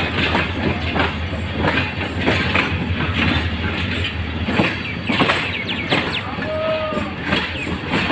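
Passenger train running slowly over jointed yard track, heard from an open coach doorway: a steady low rumble with the wheels clacking irregularly over rail joints and points, and a brief squeal about two-thirds of the way through.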